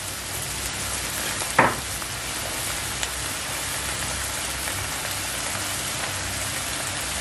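Prawns and shallots sizzling steadily in hot oil in a frying pan, turned with a wooden spatula. One short knock about a second and a half in.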